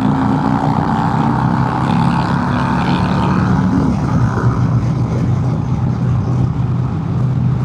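Harley-Davidson Milwaukee-Eight V-twin pulling hard under acceleration up a highway on-ramp. The pitch climbs, drops with a gear change about four seconds in, then runs steady, over a rush of wind.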